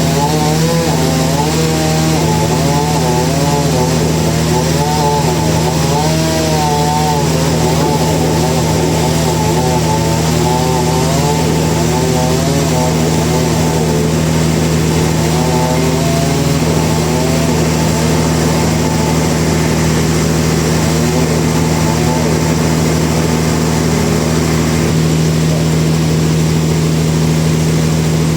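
Sawmill machinery running continuously: a steady low hum under a saw whose pitch wavers up and down as it cuts, the wavering easing off about halfway through.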